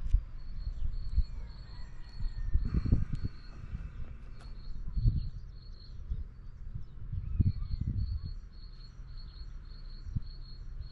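Outdoor ambience: a small bird's short high chirps repeat about three times a second in two runs with a pause in the middle, over a low, gusty rumble of wind buffeting the microphone.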